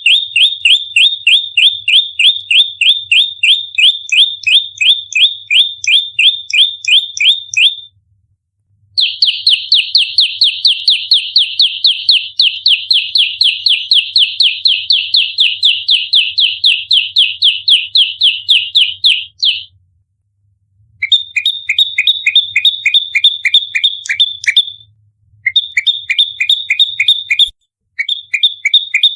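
Prenjak lumut giving its fighting call: long runs of fast, sharp, high chirps repeated without a break, about four a second and faster in the middle run. The runs stop for a second or so about 8 and 20 seconds in, and twice more near the end.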